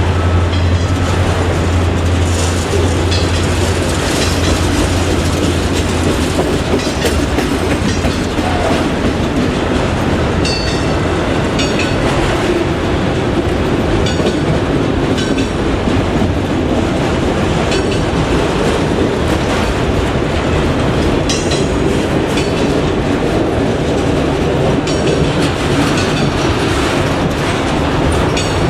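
Railroad cars rolling past steadily, their wheels clicking over rail joints. A low drone fades out a few seconds in.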